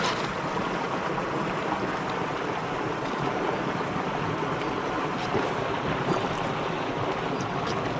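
Mountain stream water rushing steadily, with a few faint small ticks over it.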